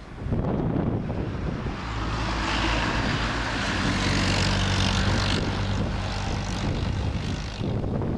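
A passing engine-driven vehicle: a steady low engine hum under a rush of noise that swells over a few seconds, peaks midway, then fades near the end.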